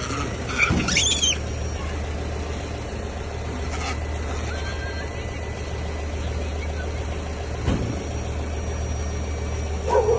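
A motor vehicle's engine idling with a steady low hum. About a second in there is a brief high-pitched squeal.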